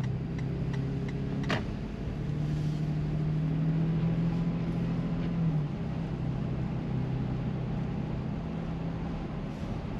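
Car interior noise while driving: a steady engine hum and road noise heard from inside the cabin, with a single sharp click about a second and a half in.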